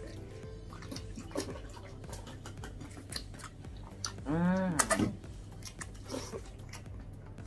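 Close-up chewing, biting and lip smacks of people eating by hand, with many small wet clicks. About four seconds in there is a short hum that rises and falls in pitch, followed by a few louder smacks.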